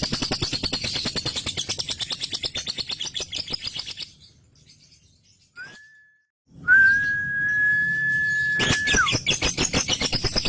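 Male lovebird's 'ngekek' song: a fast, rapid-fire rattling chatter that breaks off about four seconds in. After a short pause and a brief whistled note comes a long, steady high whistle lasting about two seconds that dips at its end, and then the rapid chatter starts again near the end.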